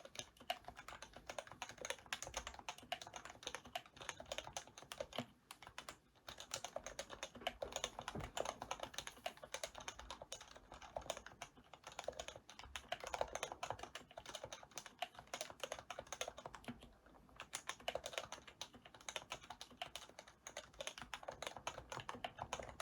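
A keyboard being typed on fast and continuously, a dense run of keystrokes with two short pauses, about five and seventeen seconds in.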